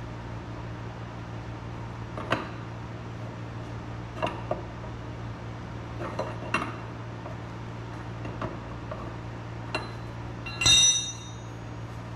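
Metal hand tools and parts clinking now and then, about eight light taps, with one louder ringing metallic clink near the end, over a steady low hum.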